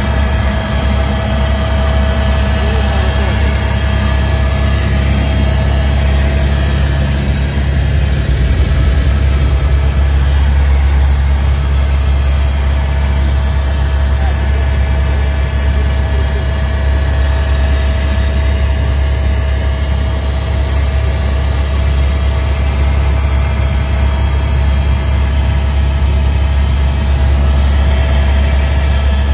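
Helicopter turbine and rotor noise, heard as a loud, steady drone with a strong low hum and a few steady whining tones above it.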